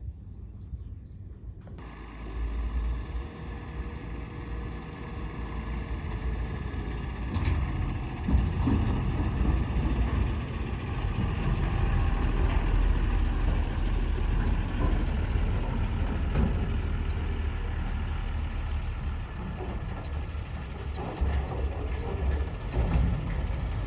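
Heavy diesel engine running with a deep, steady rumble that starts about two seconds in and grows louder.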